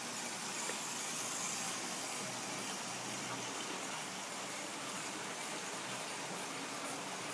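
Model trains running on a layout's track: a faint, steady whir of small locomotive motors and wheels under a steady hiss.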